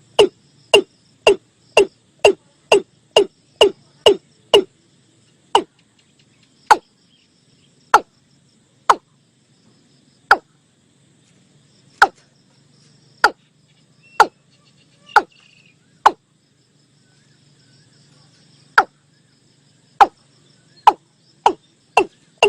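Recorded watercock calls: a series of short, hollow, downward-sweeping notes. They start quick, about two a second, slow to one every second or so with a short gap, then quicken again near the end. This is the lure call used to draw watercocks to a trap.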